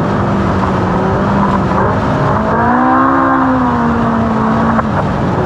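Ultra4 race car's engine running hard at speed over a steady rush of wind and terrain noise; the revs climb about halfway through and drop back near the end.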